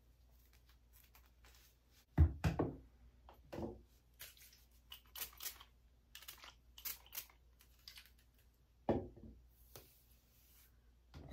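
Hair being worked onto rollers close to the microphone: short rustles and small clicks, with a few soft thumps, the loudest about two seconds in and another near nine seconds.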